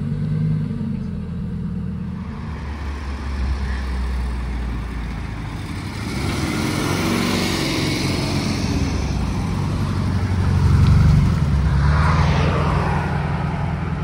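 Car engine running with a low, steady hum, growing louder with a wash of noise about six seconds in and swelling again around eleven seconds, as a car moves nearby.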